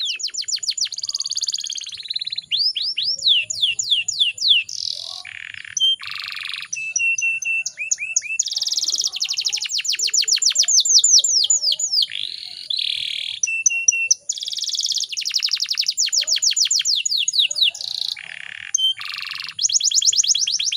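Canary singing a long, continuous song of fast trills and rolls: rapid runs of repeated sweeping notes, changing to a new phrase every second or two, broken by short held whistles and brief rasping notes.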